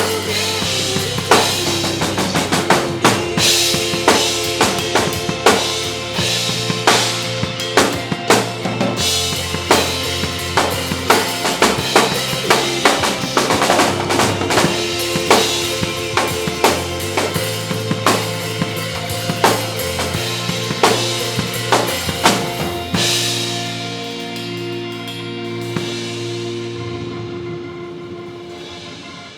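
Acoustic drum kit played in a pop-ballad groove, with bass drum, snare and cymbals, over a recorded backing track. About 23 seconds in the drumming stops and the backing track's held chords fade out as the song ends.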